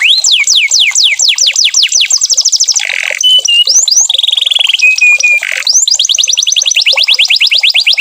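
Canary singing loudly: fast trills of rapid sweeping whistled notes. About three seconds in it switches to a few short steady whistles and a very fine rapid trill, then goes back into fast sweeping trills.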